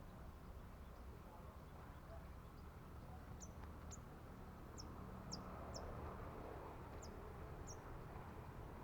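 Small bird giving about seven short, high chirps, each sweeping downward, spaced irregularly through the middle, over faint steady background noise.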